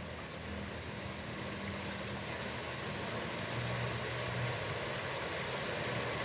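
Heavy rain falling steadily on a pond, a dense even hiss that grows slightly louder, with a faint low hum underneath.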